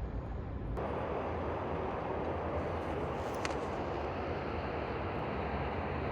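Steady outdoor city traffic noise, a hiss over a low hum, which changes abruptly about a second in and then holds steady.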